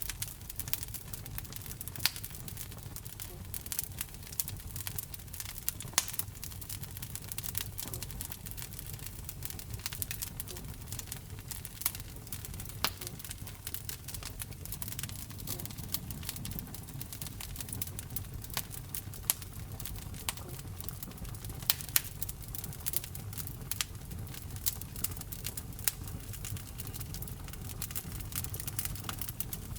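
Fire burning in a fireplace, crackling with many irregular small pops and a few sharper, louder ones scattered throughout, over a low steady rumble of the flames.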